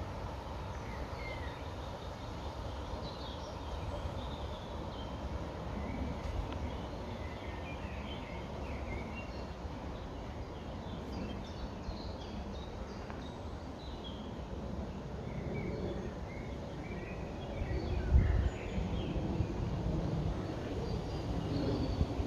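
Nature-reserve ambience: small birds chirping and calling on and off over a steady low rumble. About 18 seconds in there is a brief, louder low thump.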